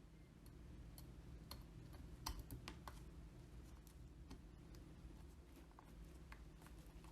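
Faint, irregular light clicks and taps of small parts being handled during work on a scale model car, over a low steady hum. A short flurry of clicks comes about two to three seconds in.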